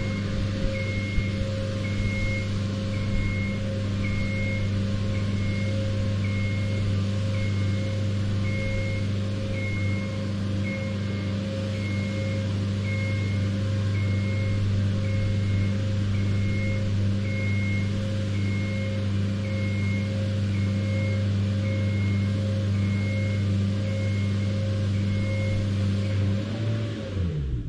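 Genie aerial lift's motor running steadily while the platform rises, with its motion alarm beeping about once a second. Near the end the motor winds down in pitch and stops as the lift reaches height.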